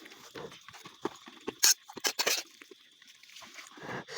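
Scattered short clicks and scrapes of people eating, utensils against metal dishes and chewing, with the sharpest click a little before the middle.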